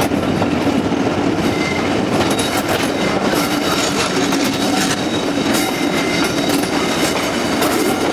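Class 50-hauled passenger train running along the track: a steady rumble of wheels on rail, with faint high squeals here and there.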